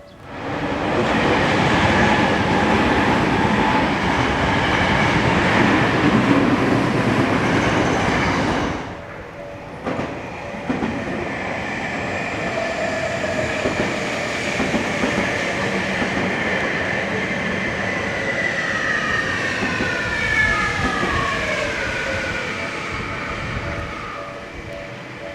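Electric trains passing: one goes by close with a loud, even rumble of wheels on rail that stops abruptly after about eight seconds. Then another runs past with a quieter rumble and a motor whine that slides down in pitch, fading near the end.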